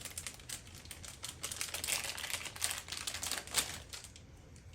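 Plastic packaging crinkling and rustling as it is handled, a quick irregular run of small crackles and clicks.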